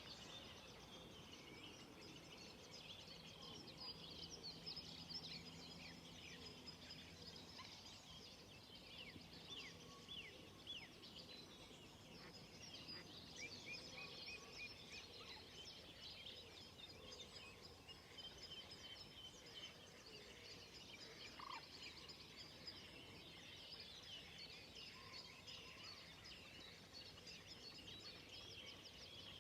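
Faint dawn chorus of many songbirds, with overlapping chirps and trills throughout.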